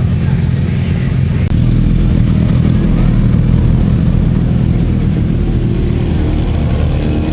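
Motorcycle engines running steadily, with a brief break and click about a second and a half in.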